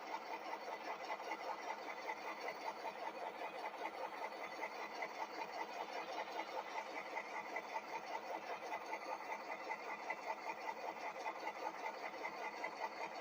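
Model diesel locomotive's DCC sound decoder playing the prime-mover sound through its small onboard speaker: a steady, even chugging of several beats a second.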